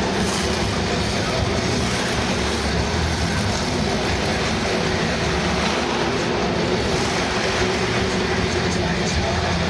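Monster truck engine running loud and steady, a dense din with a constant drone and no clear revving.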